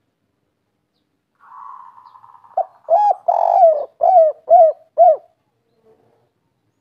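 Spotted dove cooing in the 'kuk 3' pattern. It starts with a soft rolling purr, then gives a string of cooing notes, one of them long, and ends with three short, even coos.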